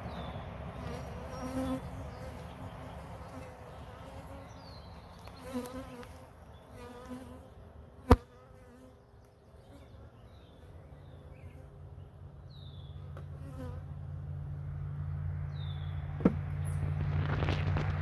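Honeybees buzzing around an open hive, the hum swelling and fading as single bees fly close past. A sharp click about eight seconds in, and a smaller one near the end; a low steady hum builds through the second half.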